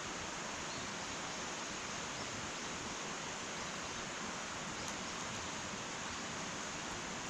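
Wood fire burning in an irori sunken hearth: a steady hiss, with one faint crackle about five seconds in.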